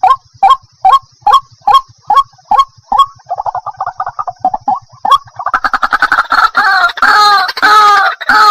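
Waterhen calling: short sharp notes at about two a second, breaking into a fast chatter, then about five seconds in a louder run of longer croaking calls repeated almost without a break.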